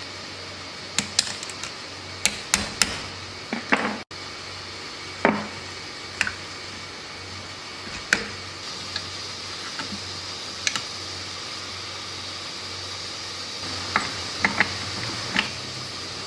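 Metal engine parts and hand tools clinking and knocking as a 70cc motorcycle engine is assembled: a dozen or so sharp, short taps at uneven intervals over a steady background hum.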